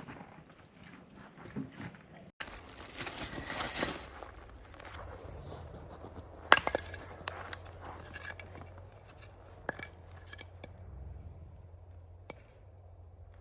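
Camp cookware and gear being handled: scattered clinks and knocks of pots and utensils, the sharpest about halfway through, over a steady low hum.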